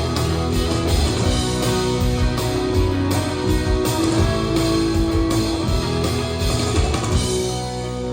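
Live rock band playing: strummed electric guitars over bass and drums. About seven and a half seconds in the drums drop out, leaving held guitar and bass notes ringing.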